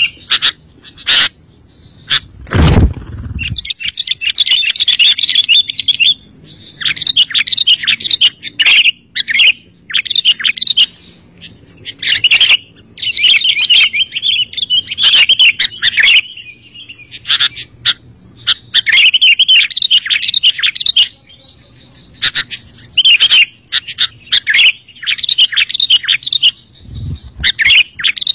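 Sooty-headed bulbuls (kutilang) calling in fast, chattering bursts of a second or two, with short gaps between. A low thump sounds about three seconds in, and a fainter one near the end.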